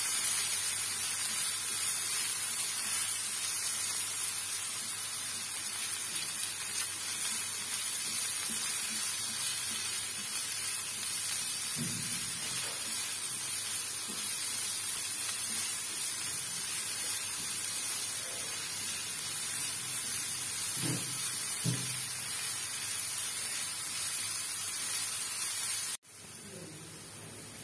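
Chopped tomato and vegetables sizzling as they sauté in oil in a non-stick frying pan, a steady hiss with a few faint knocks of the spatula about halfway through; the sizzle cuts off abruptly near the end.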